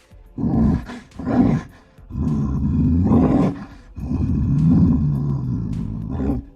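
A large animal roaring and growling: two short calls, then two long drawn-out ones.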